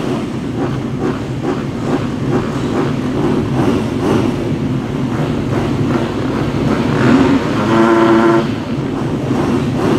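Several motocross bike engines running and revving together, with one louder, steadily held engine note about eight seconds in.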